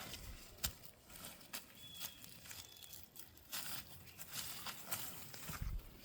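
Scattered crackles and rustles, with a few faint, short high chirps.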